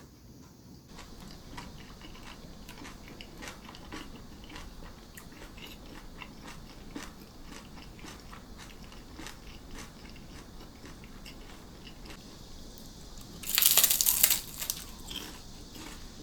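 Close-miked chewing and crunching of crisp food, with small crackles throughout and one loud, dense crunch about three-quarters of the way through.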